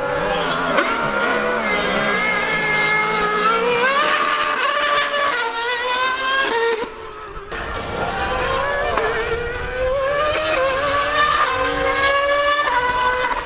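High-revving racing engines of a Formula One car and a 1000cc superbike at speed: the engine note climbs in pitch through the gears, drops away about seven seconds in, then climbs again.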